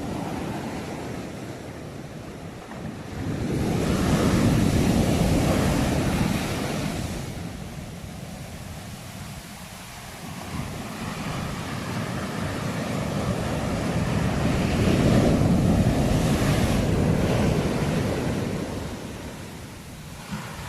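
Sea waves surging in and breaking, the noise swelling and ebbing twice: a surge about four seconds in, then a longer one building from about ten seconds and easing off near the end.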